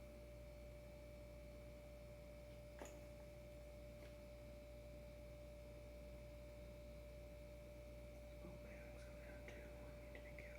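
Near silence: room tone with a faint steady hum on one pitch, a single light click about three seconds in, and a few faint handling scrapes near the end.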